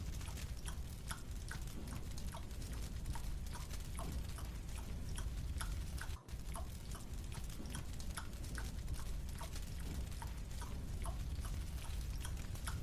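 Marshmallow being chewed with the mouth: quick irregular mouth clicks, several a second, over a steady low hum. The sound drops out for a moment about six seconds in.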